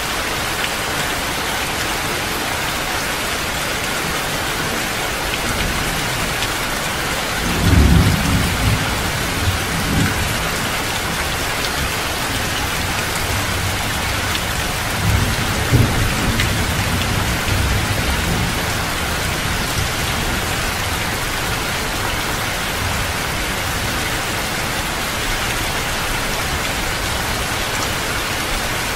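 Heavy rain falling steadily, with low rolls of thunder rumbling about a quarter of the way in and again near the middle.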